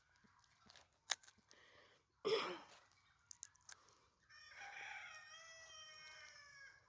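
A rooster crowing once: one long call of about two and a half seconds that drops a little at the end. It is preceded about two seconds in by a short, loud, harsh burst, with faint scattered clicks around.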